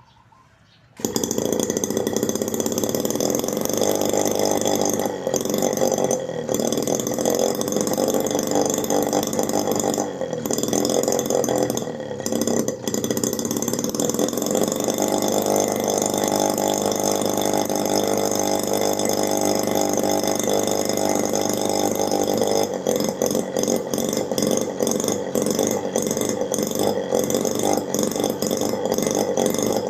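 Homemade miniature two-stroke engine, built from a refrigerator compressor, running at high speed with a buzzing, chainsaw-like note. It starts abruptly about a second in, dips briefly a few times, holds very even in the middle, and turns choppier near the end.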